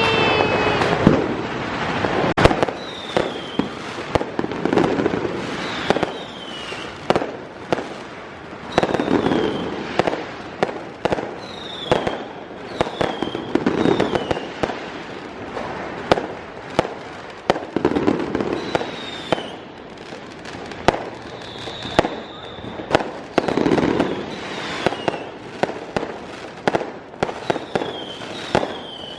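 Fireworks going off: a dense run of sharp bangs and crackles, with short whistles every second or two and louder swells every few seconds.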